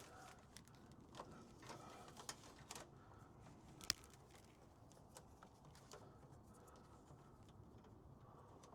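Faint scattered clicks and light rustling as a thin plastic fuel line is handled and fed through the van's underside, with one sharper click about four seconds in.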